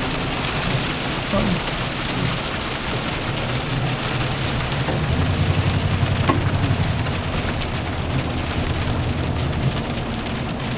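Heavy rain hitting the roof and windshield of a 2020 Toyota Tundra TRD Pro, heard from inside the cab. Under it runs the low, steady hum of the truck's 5.7-litre V8 cruising, a little stronger about halfway through.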